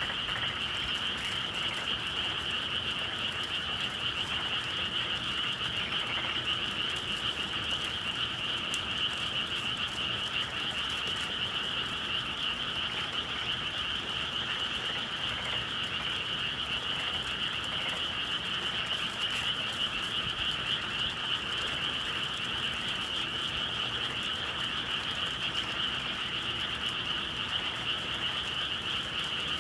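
Dense, steady chorus of many frogs calling together on a spring evening, an unbroken trilling with no pauses.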